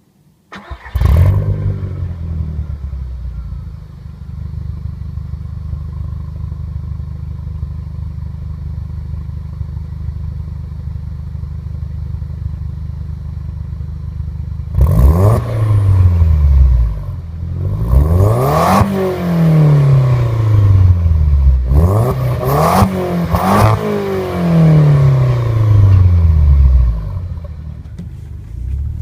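Audi TT 225's turbocharged 1.8-litre four-cylinder through a 3-inch turbo-back exhaust with no catalytic converter. It comes in with a brief loud flare, idles steadily, then is free-revved in a run of about six rising and falling throttle blips before dropping back to idle.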